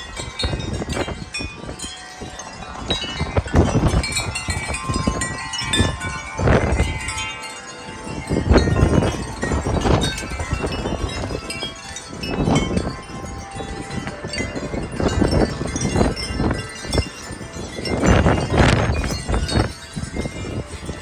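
Wind chimes ringing and clanging continuously in very strong gusting wind, with the wind buffeting the microphone in repeated loud surges.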